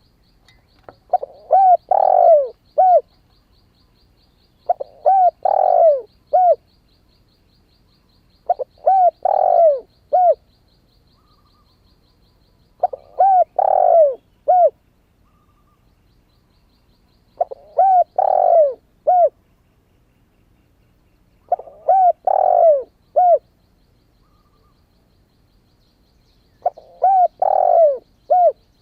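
Spotted dove, a young bird just come into song, cooing: seven phrases about four seconds apart, each a couple of short coos, a longer drawn-out coo and a short closing note. A faint high, rapid ticking runs behind the first half and again near the end.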